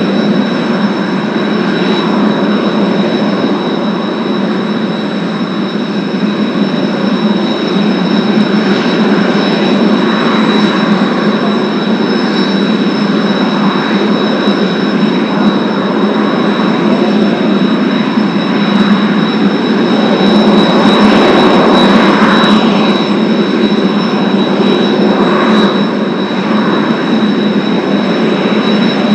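Jet engines of Kawasaki T-4 jet trainers running steadily, a dense noise with a constant high-pitched whine over it. The noise swells to its loudest about two-thirds of the way through, then eases a little.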